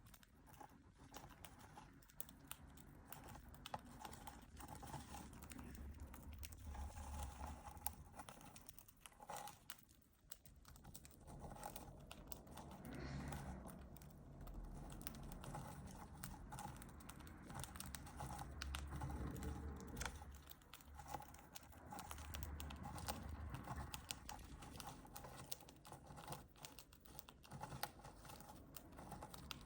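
Cockatiels pecking and rummaging in a foraging tray: a faint, irregular stream of small clicks and rustles as they pick at and crack seeds.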